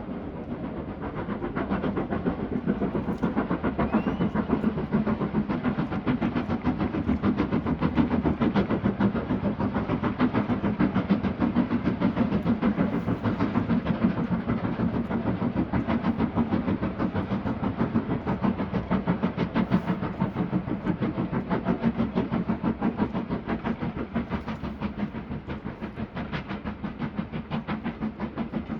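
Steam train passing, its locomotive and carriages making a fast, even rhythmic beat over a steady rumble. It grows louder about two seconds in and eases off a little near the end.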